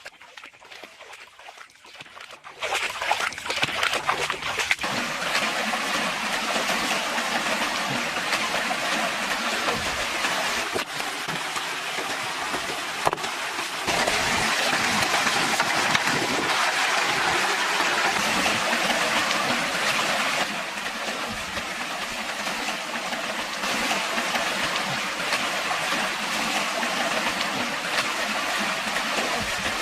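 Steady rushing, splashing noise of running or falling water, starting suddenly a few seconds in and changing level abruptly a few times.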